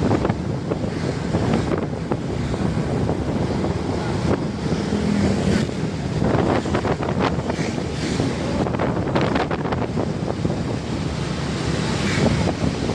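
Road traffic noise: heavy truck engines and tyres on the road, mixed with wind rumbling on the microphone.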